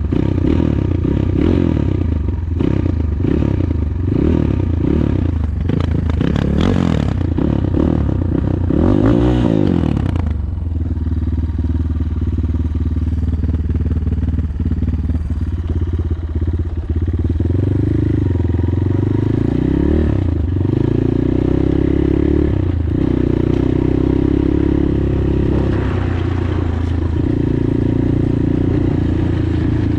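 Progasi Super Max 250 enduro motorcycle's single-cylinder engine running under way, its pitch rising and falling with the throttle. For about the first ten seconds it comes with rattling and clatter; after that the engine runs smoother, with a few pitch glides from gear and throttle changes.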